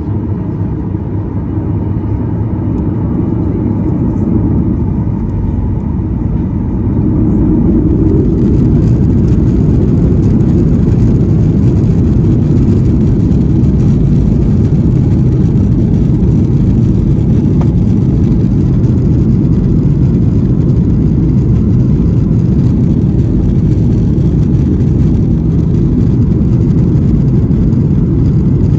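Cabin noise of a Boeing 737-800's CFM56-7B jet engines spooling up to takeoff thrust: a low, dense rumble that grows louder over the first eight seconds or so, then holds steady and loud.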